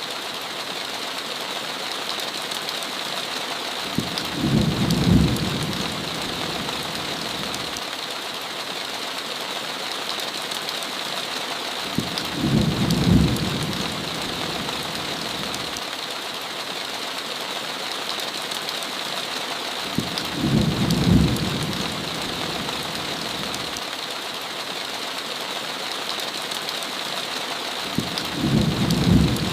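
Steady heavy rain hissing, with a short low rumble of thunder about every eight seconds: four rumbles, each lasting a second or two.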